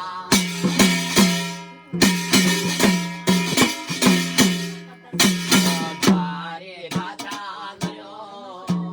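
Garhwali jagar folk music: drum strokes and loud ringing strikes over a steady low drone, with a few sung notes.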